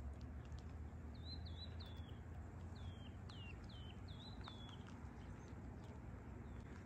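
A songbird calling: a run of about eight short, high chirps, each dropping in pitch, over a low steady outdoor rumble.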